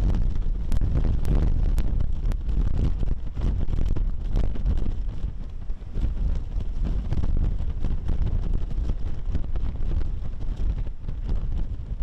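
Strong typhoon wind buffeting the microphone: a loud, deep rumble that rises and falls in gusts.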